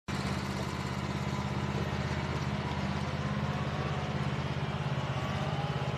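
An engine running steadily at idle with a low, even throb.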